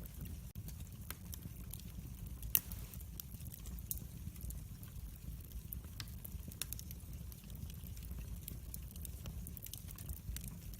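Wood fire in a fireplace crackling, with scattered pops over a steady low rumble of the flames. One sharp, loud pop comes about two and a half seconds in.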